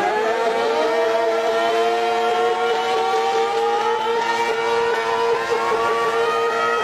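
Motorcycle engine held at high revs after a sharp rev-up, its pitch creeping slowly higher, during a stunt riding trick.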